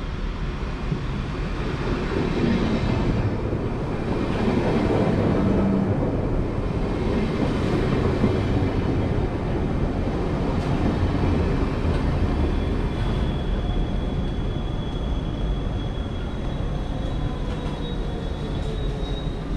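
Deutsche Bahn IC2 double-deck Intercity train running, a steady rumble of wheels and rail noise that swells slightly a few seconds in. A thin, high, steady whine joins it about two-thirds of the way through.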